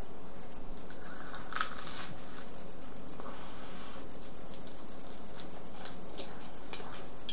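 Toast being bitten and chewed close to the microphone: scattered crisp crunching crackles, the strongest about one and a half to two seconds in, over a steady background hiss.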